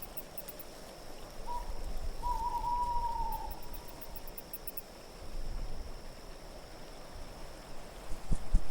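An owl hooting: a short note, then a longer wavering note that falls slightly, over a low steady wind rumble.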